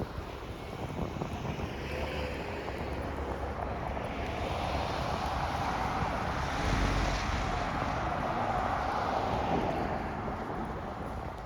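Vehicle passing by over steady outdoor traffic noise: its sound swells to a peak about seven seconds in, then fades away.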